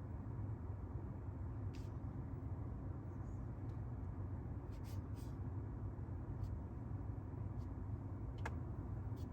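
Steady low rumble of a 3.8-litre twin-turbo V8, the Maserati Ghibli Trofeo's engine, running evenly without revving, with a few faint clicks.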